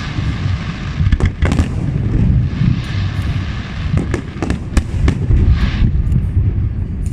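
Aerial fireworks display: many sharp bangs of bursting shells at uneven intervals, with three stretches of dense crackling from crackle-effect shells, over a constant deep rumble.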